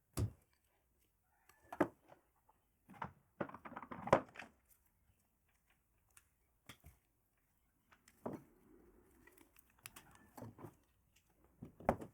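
Scattered clicks and knocks of objects being handled, with a short run of clattering about three to four and a half seconds in.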